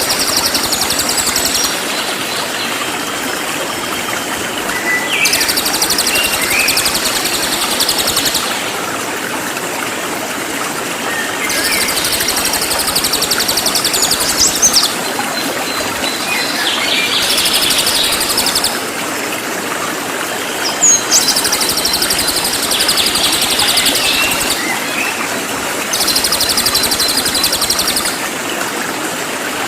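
Cililin singing loud, rapid, densely packed high-pitched song phrases in bouts of a few seconds, repeated several times, over a steady rushing water background.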